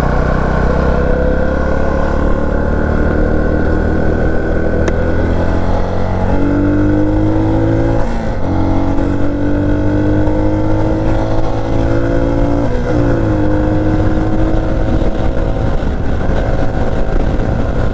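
Herald motorcycle's small single engine pulling hard under way, its pitch climbing steadily and dropping back at three upshifts, about 6, 8 and 13 seconds in, then holding steady at cruising speed.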